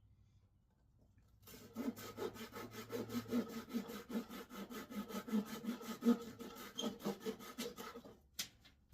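Hand saw cutting wood with quick, even back-and-forth strokes, about five a second, for roughly six seconds, then a single sharp knock.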